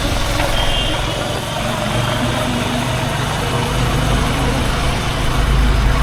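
Honda H'Ness CB350's single-cylinder engine running steadily, its exhaust note heard from the rider's seat.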